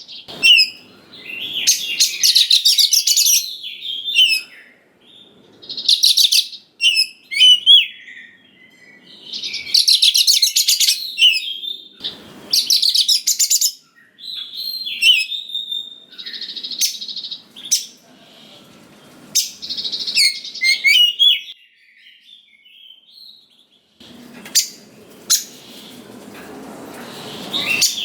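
Oriental magpie-robin (kacer) singing: loud phrases of rapid, varied whistles and chattering notes, each lasting a second or two, with short pauses between them.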